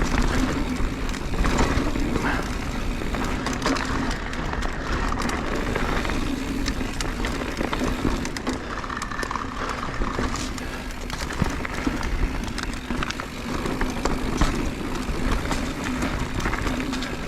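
Mountain bike descending a rocky trail at speed: tyres rolling and the bike rattling with many sharp knocks over rocks, with wind rumble on the microphone.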